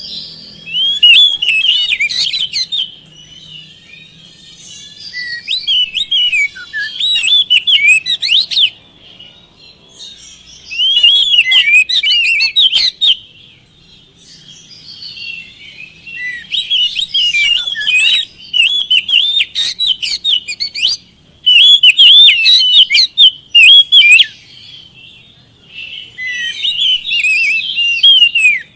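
Oriental magpie-robin (kacer) singing loud, rapid phrases of varied whistled notes, each burst lasting a second or three, with short pauses between.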